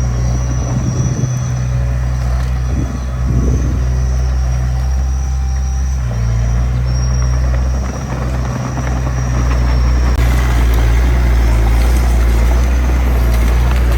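Diesel engine of heavy earthmoving machinery running steadily with a deep rumble. It grows louder about ten seconds in.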